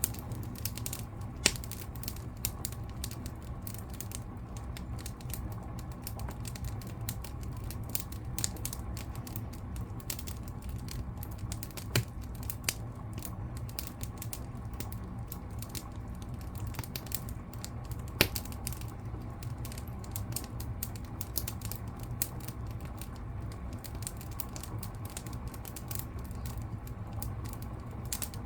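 Wood fire crackling in a fireplace: dense small crackles over a low steady rumble, with a few louder, sharper pops now and then.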